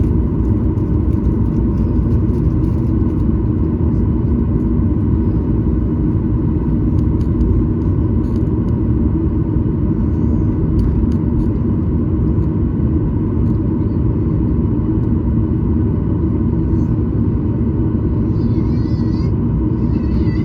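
Steady engine and airflow noise of a Boeing 737-900ER with CFM56-7B turbofans, heard inside the passenger cabin: a loud, even rumble with a constant hum. A brief high warbling sound comes near the end.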